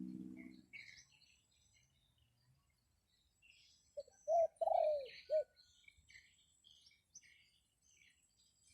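Dove cooing: a short series of four notes about four seconds in, over small birds chirping throughout.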